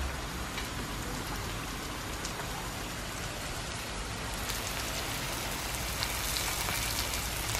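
Chicken curry masala frying in a wok: a steady sizzling hiss that grows a little brighter about halfway through.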